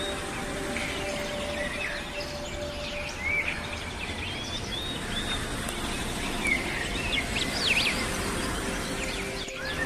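Small birds chirping and calling repeatedly: short, quick notes over a steady background of outdoor noise.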